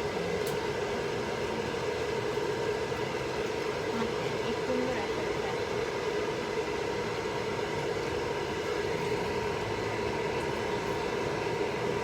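Electric hair dryer running steadily, its fan and motor blowing with a constant hum and airflow noise.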